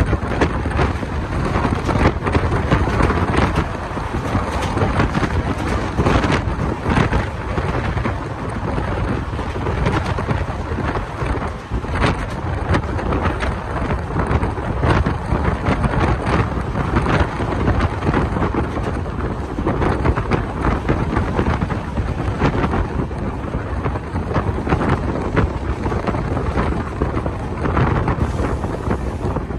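Wind buffeting a microphone held out of a moving passenger train's window, over the train's steady running rumble and irregular clacks of its wheels on the rails.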